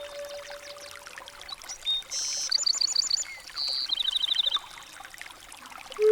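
Small birds chirping, with a quick run of repeated high notes about four seconds in, over a steady rush of running water.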